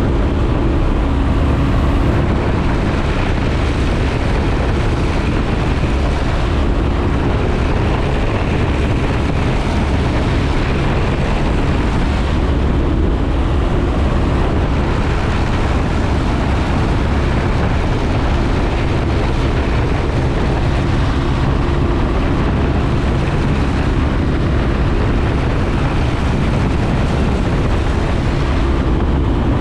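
Piper J-3 Cub's small piston engine and propeller running steadily, a loud, even drone heard from inside the cabin.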